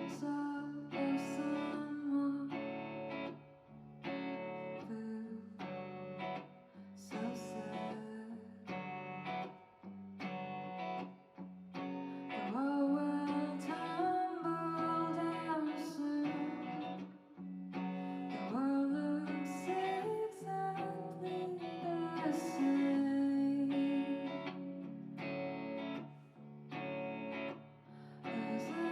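Live song with strummed guitar chords and a sung vocal line that comes in and out, strongest in the middle and latter part.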